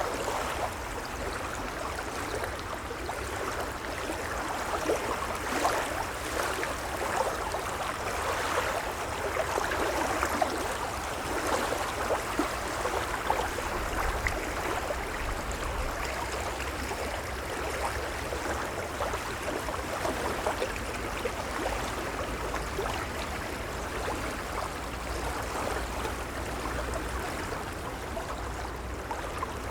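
Gentle waves lapping and splashing at the water's edge: a steady wash of small splashes and trickles over a low rumble.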